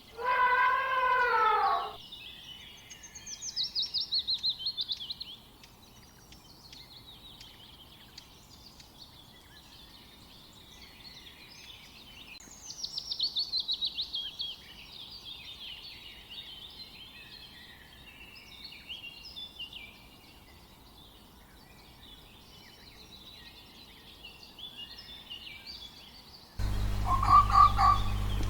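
A small songbird singing: high twittering chirps with two fast trills that slide downward in pitch. It starts right after a drawn-out animal call with a swooping pitch, and near the end the sound cuts abruptly to a loud steady low hum with short repeated calls.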